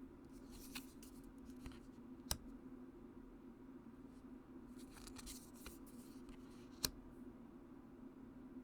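Oracle cards being handled: faint rustling of card stock and a few sharp clicks, the loudest two a little over two seconds in and near the end, over a steady low hum.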